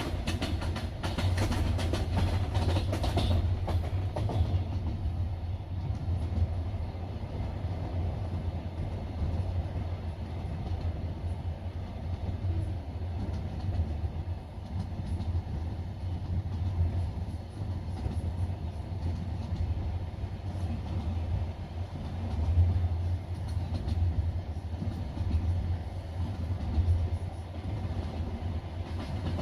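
Passenger train wheels running on the rails, heard from inside the carriage: a steady low rumble, with a quick run of clattering clicks over the first few seconds.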